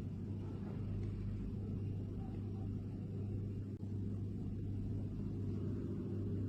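A steady low hum or rumble, even throughout, with no distinct events.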